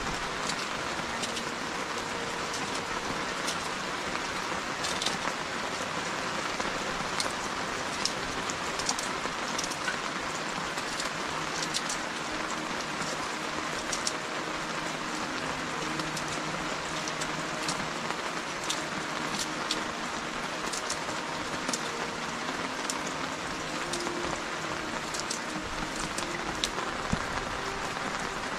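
Steady rain falling, with many sharp ticks of individual drops striking a surface.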